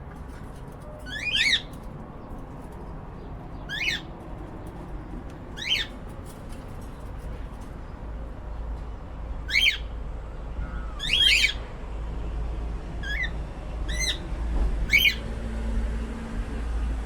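Cockatiels giving short, sharp squawking calls, about eight of them at irregular intervals, some in quick pairs, over a steady low hum.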